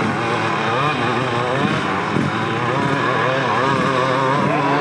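Several dirt bike engines revving at once, their pitches rising and falling independently as the bikes speed up and slow down.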